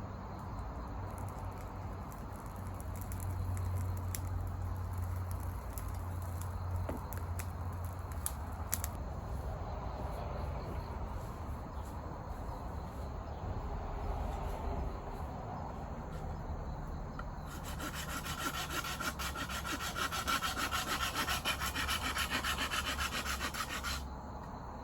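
Scraping and rubbing on wood, with a run of fast, even strokes in the last third that stop suddenly.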